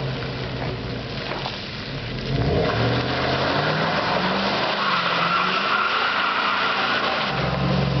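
Truck engine revving hard, rising in pitch about two seconds in, as the truck is whipped around sideways, with tyres skidding for a few seconds in the middle.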